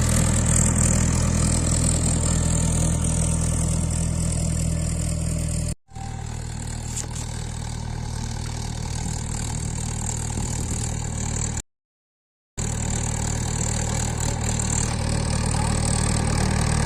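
Mahindra 575 DI tractor's four-cylinder diesel engine running steadily at an even speed. The sound cuts out completely twice, briefly about six seconds in and for about a second near the middle.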